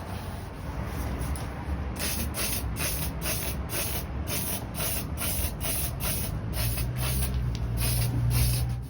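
Liquid being sprayed onto a sheet-metal toolbox: a steady hiss for about two seconds, then short spray bursts at about two a second.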